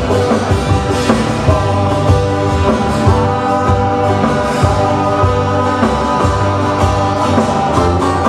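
A live band playing a song, with guitar and bass over a steady beat.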